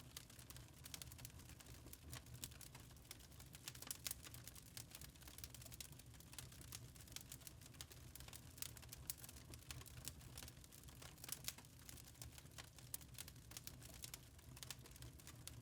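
Wood fire crackling quietly in a fireplace, a dense, irregular run of small pops and snaps.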